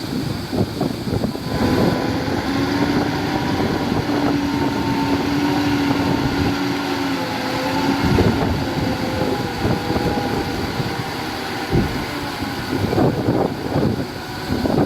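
Diesel engine of heavy earthmoving equipment running, with a steady whine held from about two seconds in until about eight seconds.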